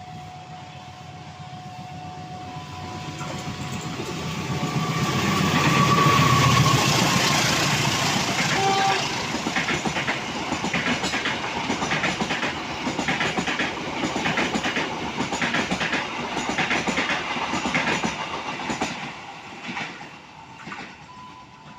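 A train passing close by: the rumble and rush build to a peak about six seconds in. Then the wheels click in a steady rhythm over the rail joints as the cars run past, fading near the end.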